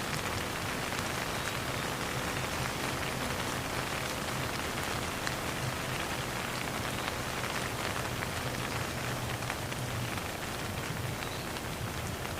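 Steady rain falling and pattering on a surface, with no thunder.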